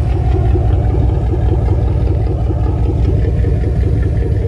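2002 Dodge Ram pickup engine running steadily through a newly fitted custom exhaust with a flex pipe and tip, a low, even rumble.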